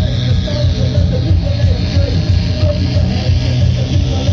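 Punk band playing loudly live: electric guitar over bass and drums, a dense, unbroken wall of sound.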